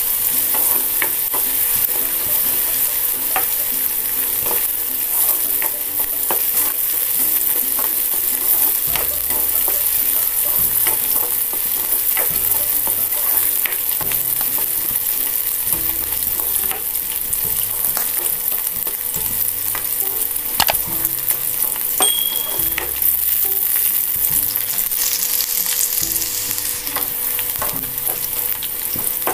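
Chopped shallots and mustard seeds frying in coconut oil in a metal kadai on a low-to-medium flame, sizzling steadily as the tempering (tadka) for sambar. A spatula stirs through them and scrapes and taps against the pan with scattered light ticks.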